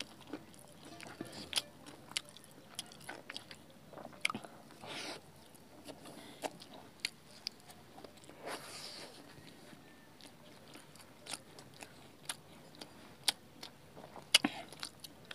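Close-up mouth sounds of people eating Maggi noodles, paratha and boiled eggs by hand: chewing and biting with many short, sharp wet clicks and lip smacks scattered throughout, and two longer hissy sounds about five and eight seconds in.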